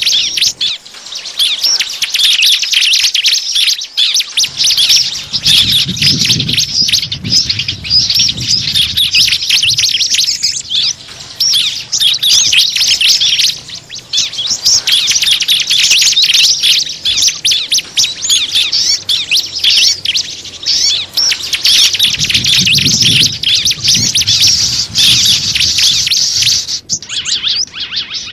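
Dense, rapid chirping and twittering of many small birds, a bird-lure call recording meant to draw small birds in. A low rumble swells underneath twice, about five seconds in and again past twenty seconds.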